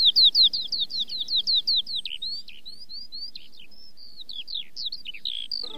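A songbird singing: a fast trill of repeated down-slurred whistled notes for about the first two seconds, then a looser run of varied chirps and short phrases.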